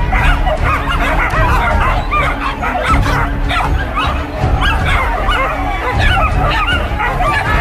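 A pack of hunting dogs barking and yelping at once, many short overlapping calls in a steady, excited chorus.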